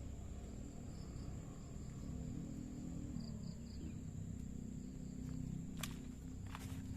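Steady high-pitched insect drone of crickets, with a few short high chirps near the middle, over a low rumble; two sharp clicks near the end.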